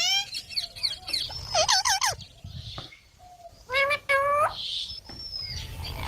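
Baby green parrot chirping: several clusters of short, pitched calls that waver up and down, with a thin high whistle near the end.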